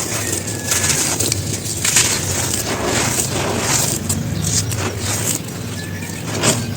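Dry, gritty cones crumbling and crunching in uneven bursts of crackle, over a steady low hum.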